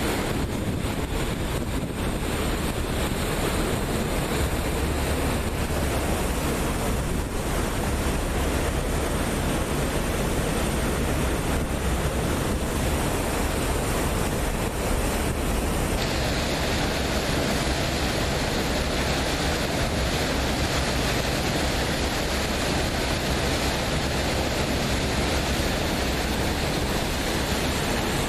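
Steady rush of water and wind on a moving passenger boat, with wind buffeting the microphone and a low, even hum underneath. About halfway through, the hiss turns brighter.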